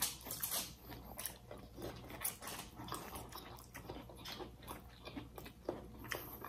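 Close eating sounds: chewing, lip smacks and small irregular clicks from people eating baked fish and soft air-fried carrot by hand.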